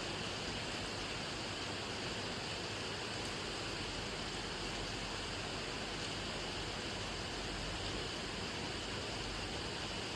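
Steady rain falling, an even hiss of many drops without separate drips or changes.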